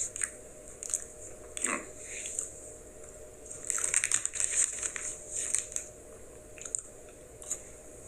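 Someone chewing and crunching a Kit Kat wafer bar: scattered crisp clicks, then a dense burst of crunching about four seconds in.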